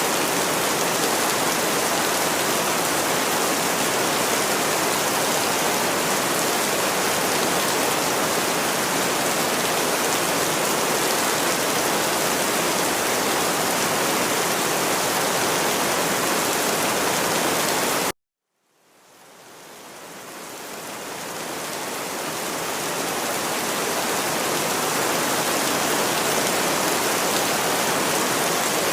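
Steady rain falling, an even hiss across all pitches. About two-thirds of the way in it cuts out suddenly for half a second, then fades back in over a few seconds.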